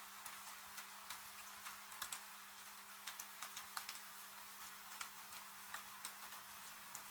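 Wood fire crackling with irregular sharp pops, over a steady hiss of rain. A faint steady low hum runs underneath.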